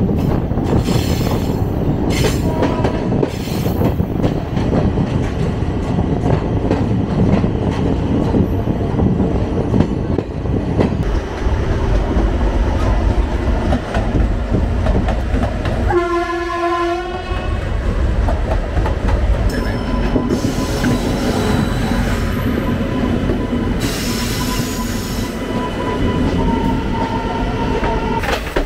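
Passenger train coaches running along the track, heard from an open door: continuous wheel rumble with clattering over rail joints and points, a short train horn blast about 16 seconds in, and a thin high wheel squeal in the last few seconds.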